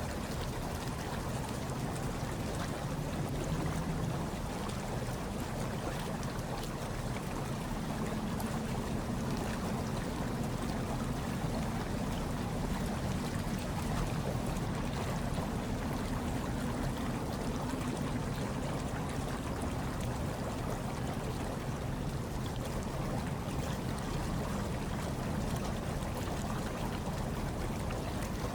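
Hot tub water churning and bubbling steadily: a deep, even rush of water with no breaks.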